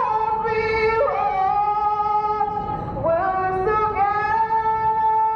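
A woman singing a slow melody in long held notes, each lasting a second or two and sliding to the next pitch.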